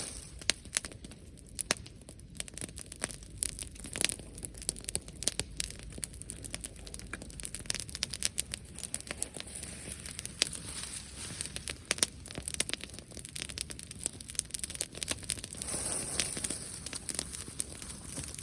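Bonfire crackling, with frequent irregular sharp pops and snaps. Near the end there is a louder rush of noise for about two seconds.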